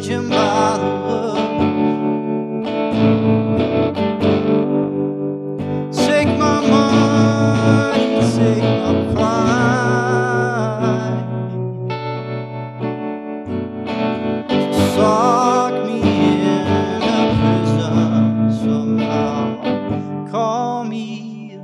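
A band playing an instrumental passage of a song, with guitar to the fore and effects on the guitar.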